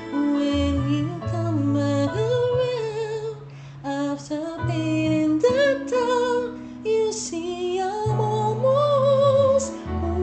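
A female voice singing a slow, wordless-sounding melody with wide vibrato over held low accompaniment notes, with a brief drop in level about three and a half seconds in.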